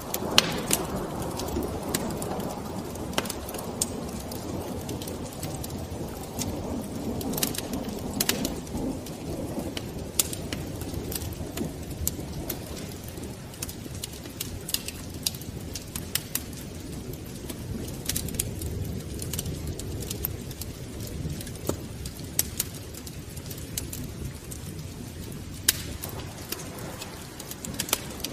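Wood fire burning in a fireplace, a steady low rumble of flames with irregular sharp crackles and pops from the logs.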